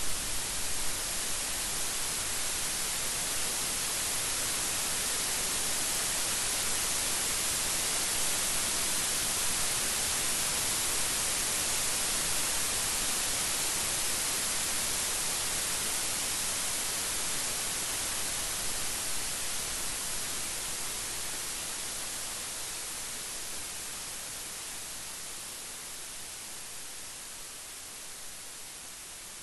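Steady rain, a dense even hiss, slowly growing quieter through the second half.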